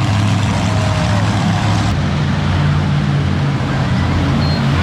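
Monster truck engine running loud and steady, its pitch shifting a little.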